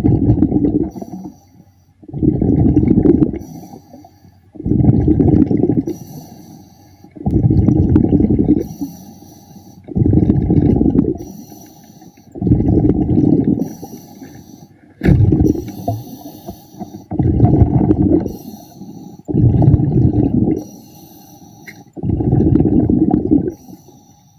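A diver breathing underwater through a regulator: a steady rhythm of about ten breaths, each a loud rumbling rush of exhaled bubbles about a second long, with a fainter high hiss of inhaling in between.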